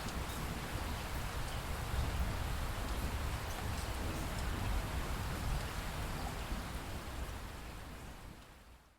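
Steady rain with a low rumble beneath it and scattered drop ticks, fading out near the end.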